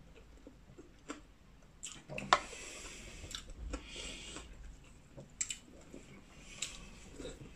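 Someone chewing and eating crab close to the microphone, with wet squishing and small clicks and crackles of crab shell being handled. There is a sharp click a little over two seconds in.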